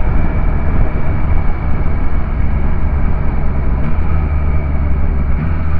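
Yamaha MT-09 SP's 890 cc three-cylinder engine and exhaust running steadily at a low, even pitch, with no revving.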